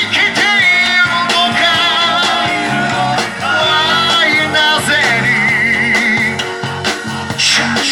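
A live rock-and-roll band playing a song, with singing over guitar, bass and drums.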